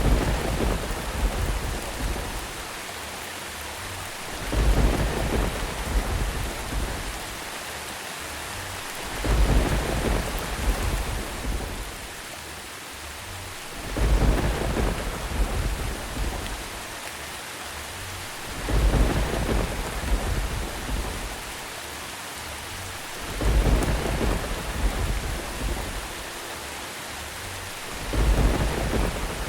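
Steady rain hiss with a low thunder rumble that swells and fades every four to five seconds, at even intervals, seven times in all.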